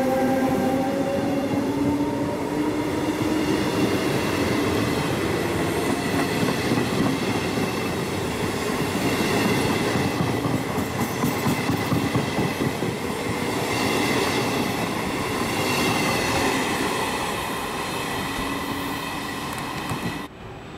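Trenitalia E.464 electric locomotive pulling a regional train away, its traction motors giving a whine that rises in pitch over the first couple of seconds. Then the passenger coaches roll past with steady wheel-on-rail rumble and clacking, and some high steady tones mid-way. The sound cuts off suddenly near the end, leaving a quieter background.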